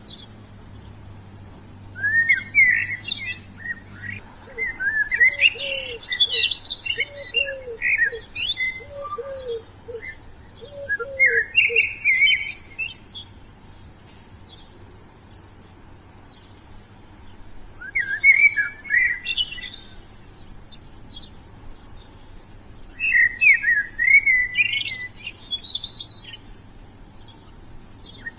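Wild songbirds singing in four separate bursts of rapid, varied chirps and trills with pauses between them. A lower run of short, repeated notes sounds alongside the second and third bursts, over a steady high hiss.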